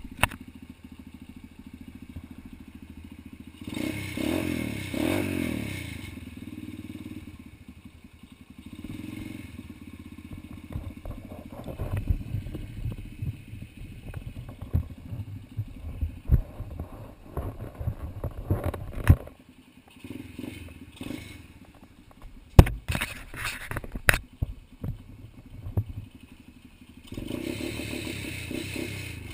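Pit bike engine running, revving up and down about four to six seconds in and running steadily near the end, with irregular clattering and sharp knocks in between.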